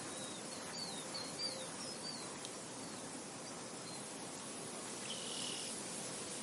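Steady hiss of wind and insects, with a bird giving a quick run of short, falling chirps in the first couple of seconds and a brief buzzy call about five seconds in.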